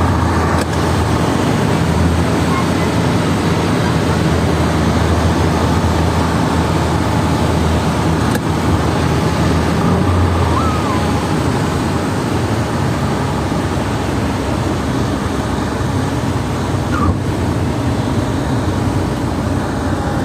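Steady drone of a passenger jet's engines and rushing air heard in the cabin. A low hum runs throughout, and a higher engine tone drops out about halfway through.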